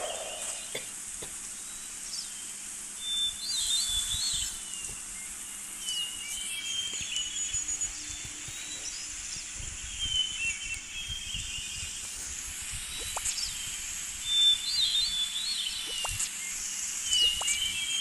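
Birds chirping over a steady high hiss of natural ambience, with short runs of chirps every few seconds.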